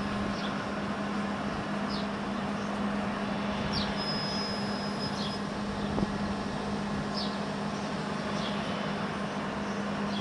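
00 gauge model train running on the layout: a steady electric motor hum with faint light clicks about every second and a half.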